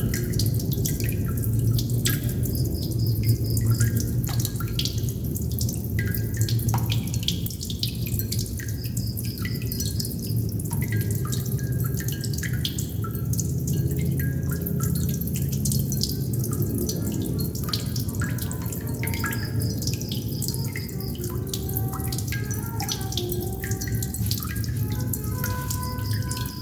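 Water droplets dripping, an irregular patter of small plinks and ticks over a steady low rumble, with a faint high trill recurring every few seconds.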